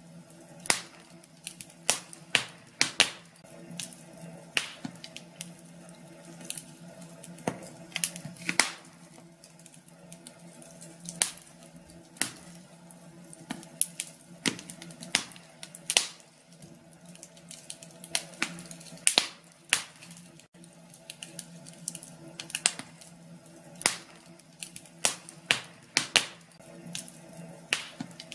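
Wood fire in a fireplace crackling: irregular sharp pops and snaps, sometimes in quick clusters, over a faint steady low hum.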